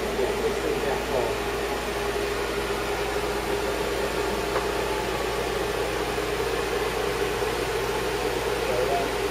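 Steady machine hum from a motor running without letup, with faint voices in the background.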